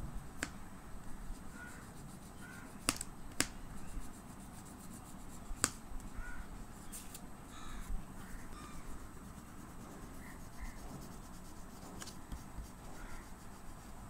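Faint, scattered short bird calls over low background noise, with a few sharp clicks, the loudest two close together about three seconds in.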